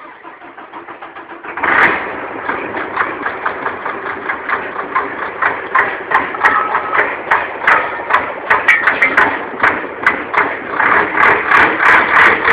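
Formula Truck race truck's diesel engine catching about a second and a half in, then running with uneven surges of revs.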